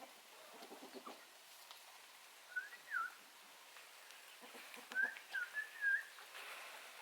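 Farmyard birds: chickens clucking low and briefly, with short whistled chirps that bend in pitch, a pair a few seconds in and a quick run of four near the end.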